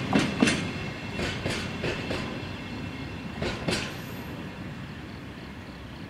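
Train wheels clacking over rail joints in pairs as the last wagons roll past, the clacks growing fainter and stopping about four seconds in. A low rumble is left as the train moves away.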